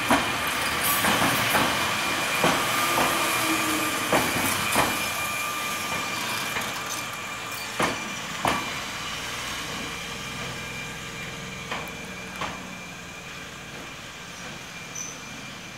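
Hokuriku Railroad 8000 series electric train rolling slowly into a station and slowing to a stop. Its wheels click over the track joints in pairs every few seconds, and the running noise fades as it slows.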